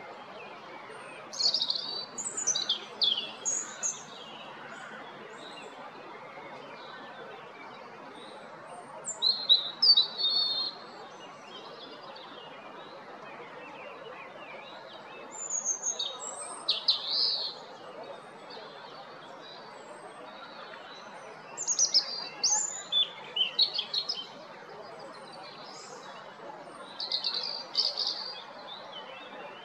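European robin singing: five short phrases of high, quick, varied notes, each two to three seconds long, separated by pauses of several seconds, over a steady low background noise.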